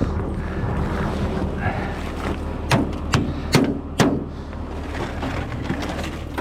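Four sharp hammer blows, about two a second, struck on the truck to free up a part that was keeping it from starting. A steady low hum runs underneath.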